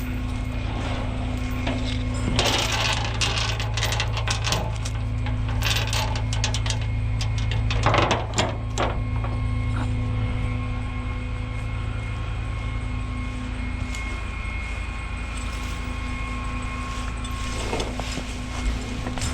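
Tow truck engine running steadily with a constant hum. Crunching and clattering come and go over it, loudest about eight seconds in.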